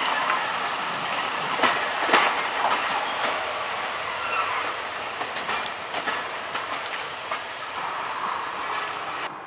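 Train hauled by Class 37 diesel D6732 rolling past, its wheels clicking irregularly over rail joints, with the sound slowly fading as it moves away. The sound drops off suddenly just before the end.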